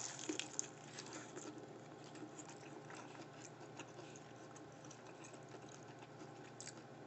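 A person chewing a bite of deep-fried sushi burrito close to the microphone: faint crunches and small wet mouth clicks, a little louder in the first second or so.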